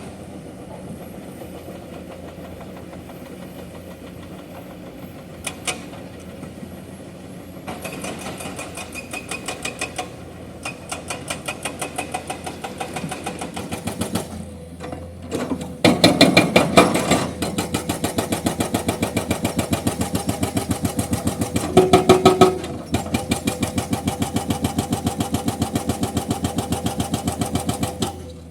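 Excavator engine running steadily, then its hydraulic breaker hammering limestone rock in a fast, even stream of blows from about eight seconds in. The hammering stops briefly about halfway through, then resumes louder and runs on with one short break.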